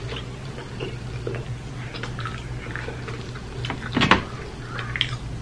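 A person chewing ribs close to the microphone, with soft wet mouth sounds, over a steady low hum. There is one sharper, louder sound about four seconds in.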